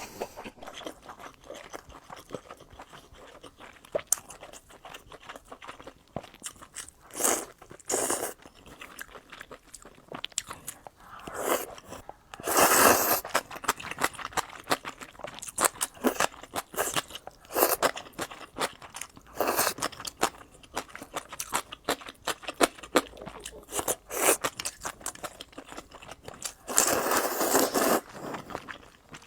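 A person eating close to the microphone: wet chewing with many small crunches and clicks, and longer noisy stretches about twelve seconds in and near the end.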